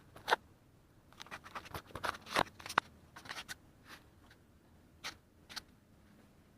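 Close handling noise: irregular rustles, scratches and small sharp clicks, busiest in the first three seconds and sparser after, as a bandage or covering is handled on a cut arm.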